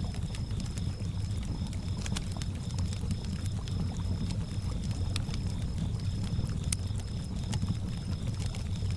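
Campfire crackling with scattered sharp pops over a low steady rumble of gently lapping lake water, while a cricket chirps a high, even pulsing trill.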